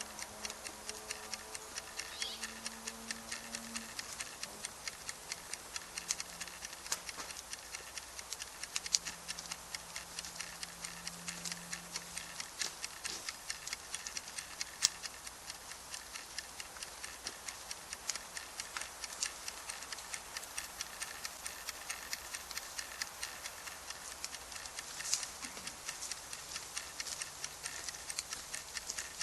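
Wood campfire crackling: a steady run of small irregular pops, with a few louder snaps.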